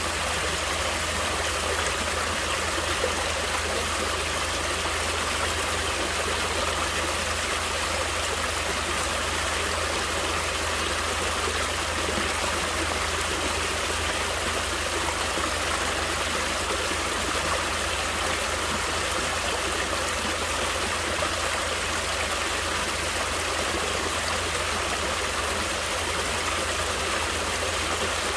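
Natural stream of water flowing steadily over rocks, an even rushing with small trickles and gurgles.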